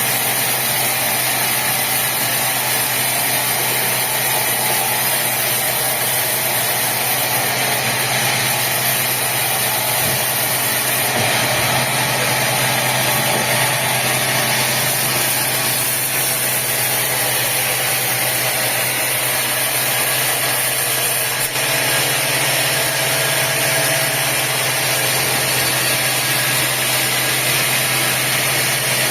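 Sawmill machinery running steadily: a constant engine-like hum with a hiss over it, and no distinct cuts or knocks.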